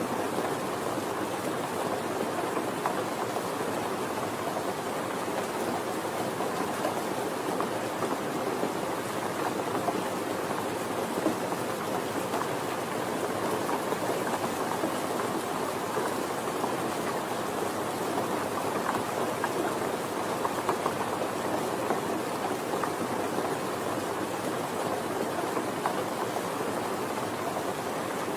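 Steady rain falling, a dense even patter of drops on surfaces with fine individual drop ticks throughout.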